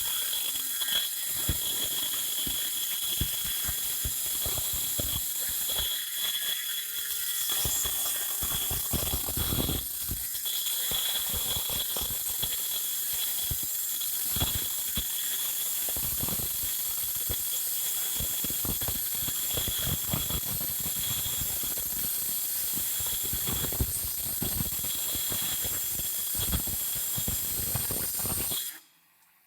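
Bosch rotary tool with a 3 mm bit running at high speed and grinding a hole through a clay pot: a steady high whine with rough, scratchy grinding as the bit bites the clay. The tool stops abruptly near the end.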